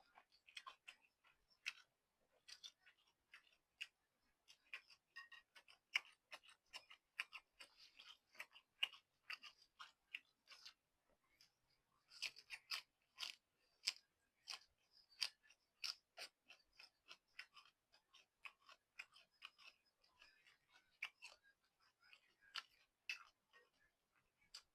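Faint close-up chewing of noodles and stewed beef: a stream of short, irregular wet mouth clicks, several a second.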